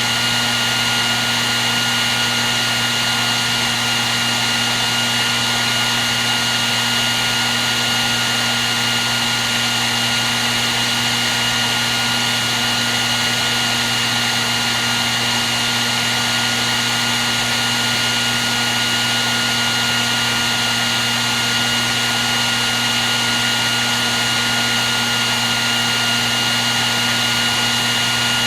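Handheld hair dryer running continuously at a steady speed: a rush of blown air with a low motor hum and a steady high whine, unchanging throughout.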